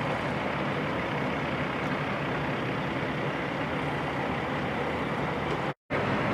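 Heavy truck diesel engines running steadily. The sound cuts out completely for a moment near the end.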